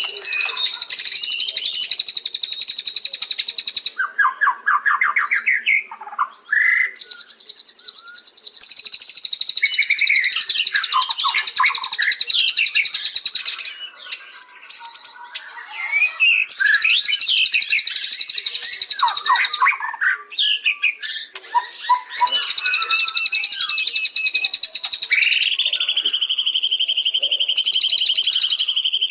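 White-rumped shama (murai batu) singing: long, rapid, high trills lasting several seconds alternate with varied, lower whistled phrases. A long steady whistle is held near the end.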